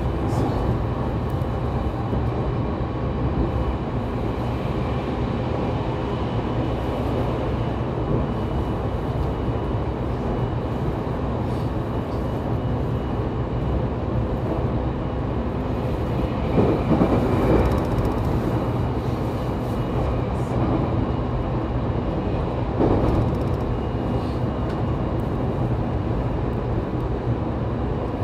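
Interior running sound of a JR Kyushu 813 series electric multiple unit motor car cruising between stations: steady wheel-on-rail rumble with a faint traction-motor whine. The noise swells briefly twice, past the middle and again about six seconds later.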